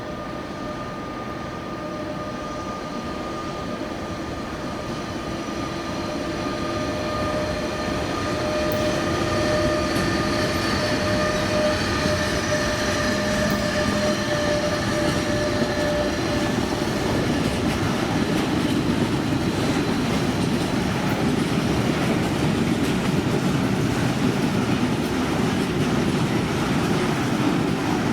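A train approaching and passing: a whine of several steady tones fades out around the middle while the rolling noise of wheels on rails grows louder and then holds steady, with the clickety-clack of wagons going by.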